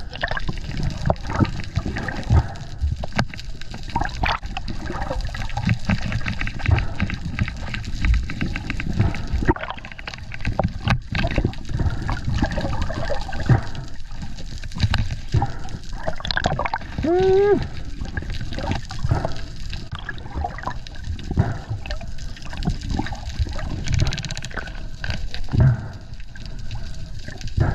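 Water rushing and gurgling around a diver's camera in strong current, with many short knocks and clicks scattered through. About seventeen seconds in there is a brief wavering pitched sound.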